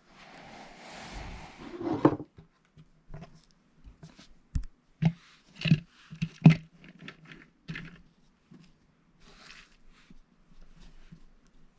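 Lego plastic pieces being handled and pressed together: a rushing, rustling sound for the first two seconds that ends in a loud swell, then a run of sharp plastic clicks and taps, loudest around the middle.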